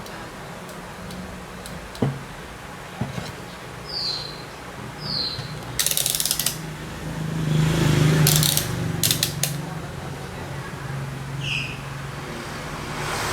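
Mechanical clicks and short rapid rattling clatters, like tools and parts being handled, over a low steady hum; a sharp click about two seconds in and the busiest rattling a little past the middle.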